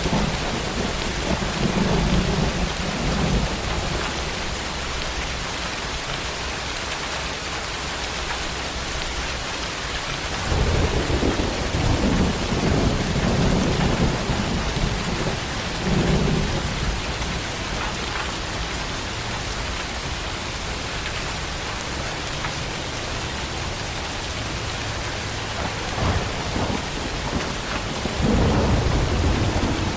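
Heavy tropical rain falling with a steady hiss. Rolls of low thunder rumble in three times: near the start, for several seconds about a third of the way in, and again near the end.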